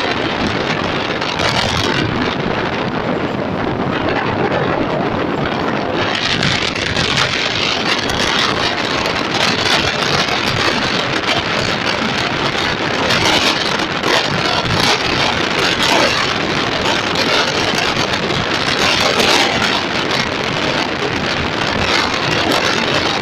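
Passenger coaches of an express train running past at speed: a loud, steady rumble and clatter of steel wheels on the rails, with a higher hiss coming up about six seconds in.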